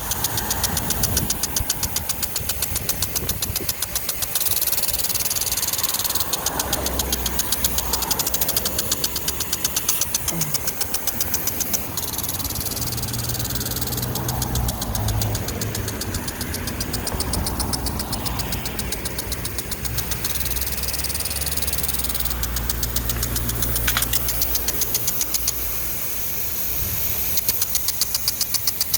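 An engine running steadily, with a fast, even pulse and a low hum throughout.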